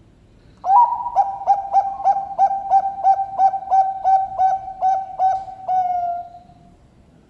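Perkutut Bangkok zebra dove cooing: an opening note, then a quick, even run of about a dozen short coos at roughly three a second, ending in a longer drawn-out note that fades away.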